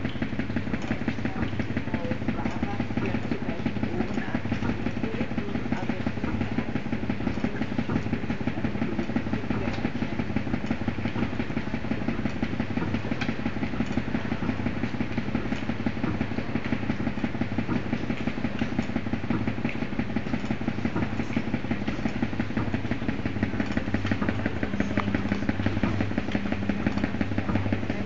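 Bulldozer's diesel engine running steadily with a rapid, even clatter, a little louder near the end.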